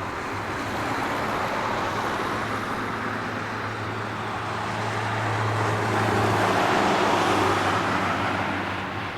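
A passing vehicle: a steady rushing noise with a low steady drone beneath it, swelling to its loudest about seven seconds in, then fading.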